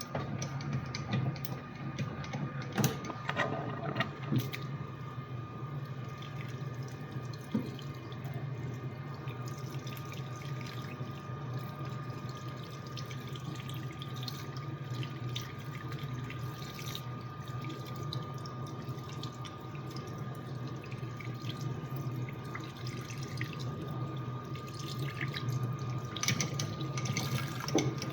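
Metal lathe running while turning steel, with a steady motor hum and a constant high tone under a continuous splashing wash like flowing coolant, and scattered clicks.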